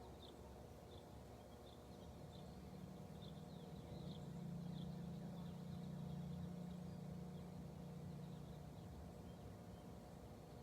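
Faint outdoor ambience: a scatter of short high chirps, with a low hum that swells from about two seconds in and fades near the end.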